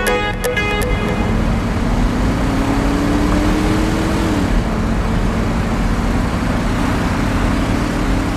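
A motor running steadily with a rushing noise. Its pitch climbs slowly and then drops back about four and a half seconds in, as when the throttle is eased.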